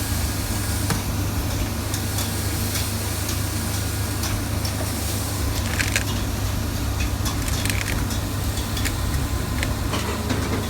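Steady low machine hum of a takeaway kitchen, with scattered light knocks and clicks from food being handled, a few sharper ones partway through.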